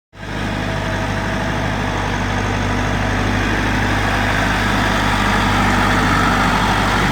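Massey Ferguson 375 tractor's diesel engine running steadily at an even speed.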